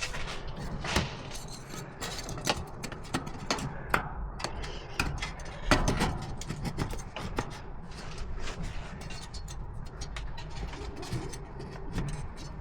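Irregular sharp clicks and knocks from hands working with tools and fittings, the loudest knock about six seconds in, over a low steady rumble.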